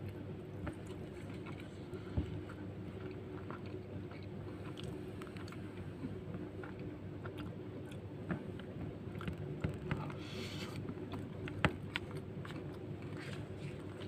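Close-miked chewing and biting of nasi lemak with fried cow lung, with scattered small clicks and scrapes of a spoon on the paper and banana-leaf wrapping, over a steady low hum.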